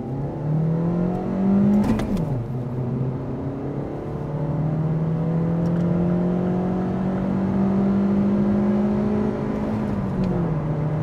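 A Mazda 3's 105 hp petrol engine accelerating hard from a standstill, heard from inside the cabin. The engine note climbs, drops sharply for a gear change about two seconds in, climbs slowly again for several seconds and drops for another upshift near the end.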